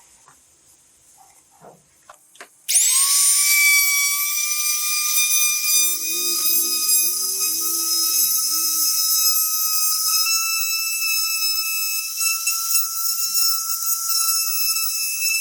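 A small high-speed electric motor switches on about three seconds in, spinning up within a fraction of a second to a steady high-pitched whine that creeps slightly higher in pitch. A few faint clicks come before it.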